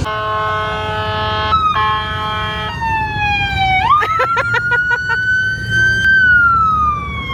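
Police car electronic siren cycling through its tones: two steady buzzy blasts, then a falling wail, a fast warbling yelp about four seconds in, and a slow rising and falling wail, over a low rumble.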